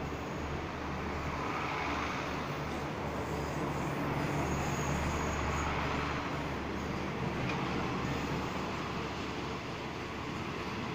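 Passenger train coaches rolling past along a station platform: a steady rumble of steel wheels on the rails with a low hum underneath. A faint high-pitched squeal sounds briefly about four seconds in.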